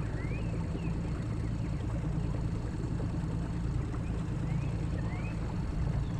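Boat motor running steadily under way, with a few short rising bird chirps over it.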